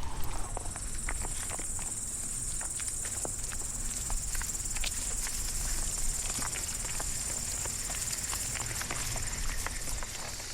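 Insects trilling in a steady high-pitched buzz, with scattered small clicks and ticks over a low rumble. The buzz fades out near the end.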